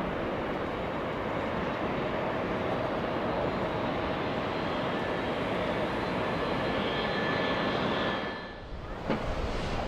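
Jet airliner engines: a steady loud rush with a faint high whine through it. The sound drops away briefly near the end, then comes back with a click.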